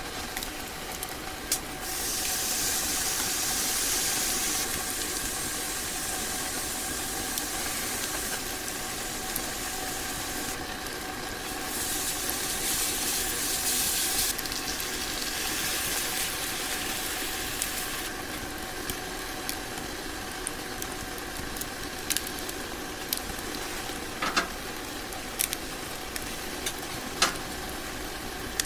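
Food sizzling in a pan, a steady hiss that swells into louder spells a few times, with scattered small clicks and crackles.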